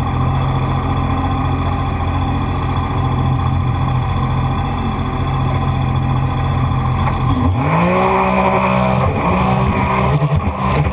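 Jet ski engine running steadily, then revving up with a quickly rising pitch about seven and a half seconds in, holding at higher revs.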